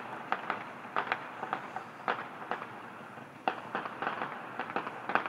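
Fireworks going off, a rapid, irregular run of crackling pops that comes thicker after about three and a half seconds.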